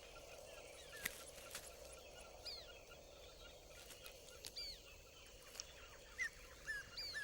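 Faint, scattered bird calls, short curved chirping notes every second or so, over a steady soft outdoor hiss, with a few sharp clicks.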